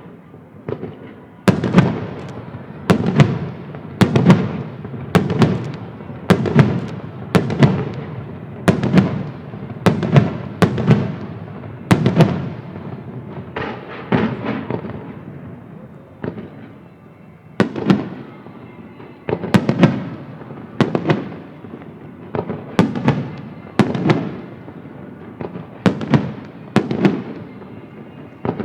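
Aerial fireworks shells bursting in quick succession: a sharp boom about every second, each followed by a fading echo, with a short lull a little past halfway.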